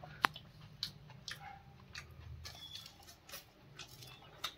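A person chewing a mouthful of mutton and potato curry: faint wet chewing and small mouth clicks, with one sharper click about a quarter second in.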